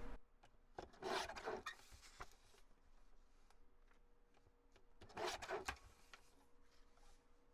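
Paper being handled and slid on a work table: two short rustles, about a second in and again about five seconds in, with a faint steady hum underneath.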